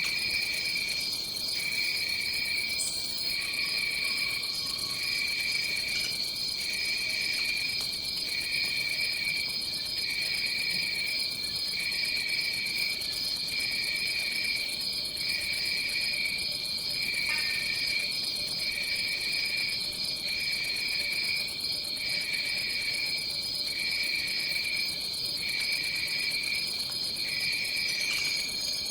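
Tropical rainforest insect chorus: one steady high-pitched drone, with a lower trill that pulses on and off about once every second and a half.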